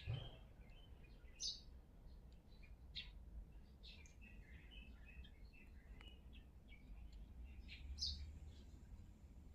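Faint bird chirps, short and scattered, a few louder calls about one and a half, three and eight seconds in, over a low steady rumble. A brief thump right at the start.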